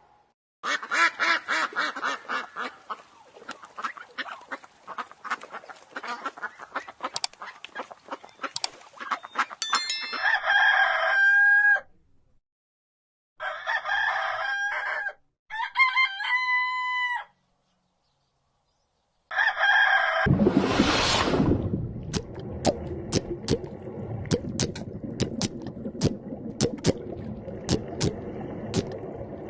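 Chickens clucking and a rooster crowing, in short separate clips cut one after another. There are two brief silences between clips. Near the end the calls sit over a steady noisy background with sharp clicks.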